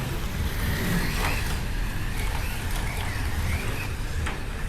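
Electric slot cars racing on a track, their motors whining and rising and falling in pitch as the drivers throttle on and off, with a low rumble of the cars on the track and a few sharp clicks.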